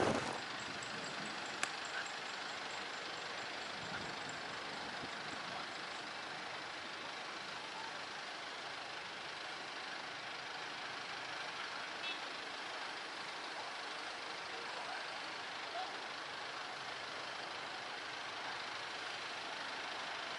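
Steady, even background noise with a few faint clicks, and no single distinct source standing out.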